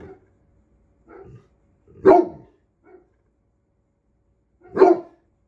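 Great Pyrenees barking in deep single barks: two loud ones about two and five seconds in, with quieter low woofs between. It is guard-barking at birds it has not yet chased off.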